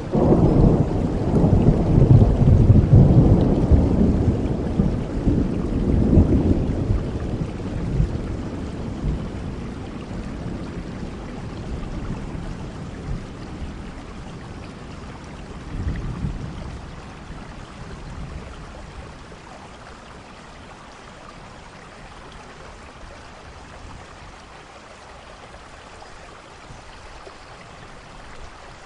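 Thunderstorm: a long roll of thunder over the first several seconds that slowly fades, a second, weaker rumble about halfway through, then steady rain falling.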